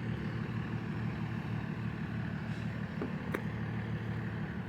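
Truck engines running steadily at a distance: a low, even rumble, with two faint clicks a little after three seconds in.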